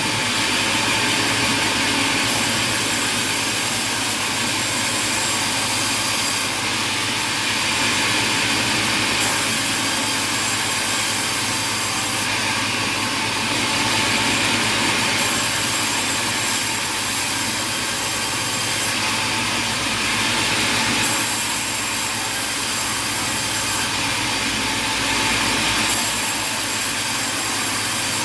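Sawmill saws and machinery running and cutting timber, a loud steady din that shifts in character every few seconds.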